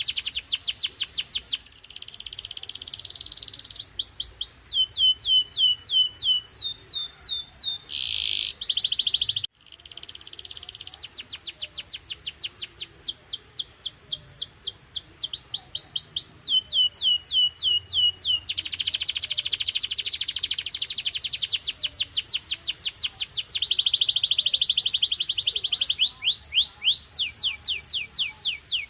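Domestic canary singing a long song of rapid repeated phrases: runs of quick falling whistled notes, about five a second, alternate with dense buzzing rolls. The song breaks off abruptly for a moment about a third of the way in, then resumes.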